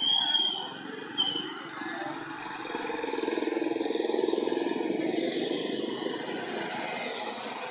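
Two short, high squeals from a baby macaque in the first second or so, then a motor engine running steadily, loudest in the middle.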